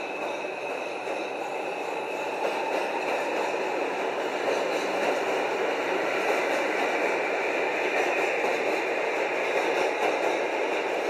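Train running along the track: a steady rumble of wheels on rails that grows a little louder over the first few seconds.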